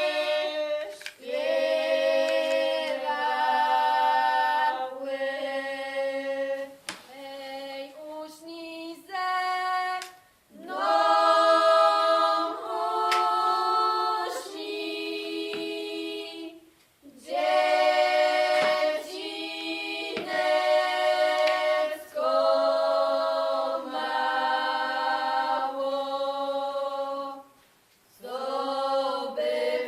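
Background music: a choir singing a cappella in long held phrases, with a few brief breaks between phrases.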